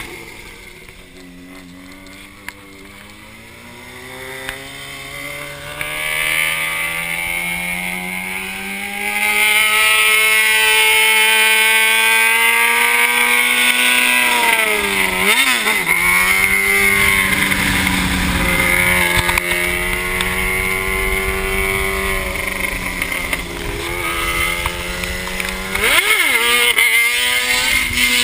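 Yamaha XT660's single-cylinder engine under way, its pitch climbing steadily as the bike gathers speed. Two quick drops and recoveries in revs, about halfway through and near the end, mark gear changes. A loud rushing noise builds as the speed rises.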